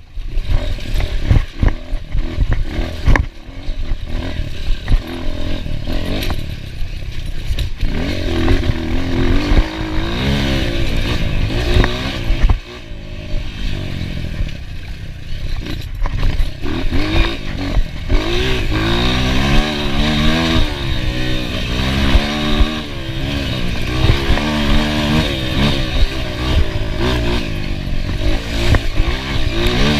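Enduro motorcycle engine being ridden hard over rough ground, its pitch rising and falling again and again as the throttle opens and closes, with clattering knocks throughout. The first several seconds are mostly knocks and clatter, before the engine revs come through clearly.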